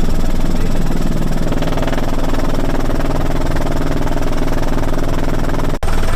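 Helicopter in flight: a steady, loud drone of rotor and engine, breaking off for an instant near the end.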